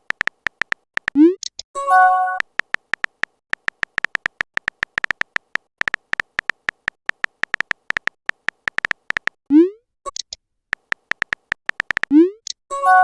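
Messaging-app sound effects: long runs of rapid typing clicks, with a short rising swoop followed by a bell-like message chime about a second in and again near the end.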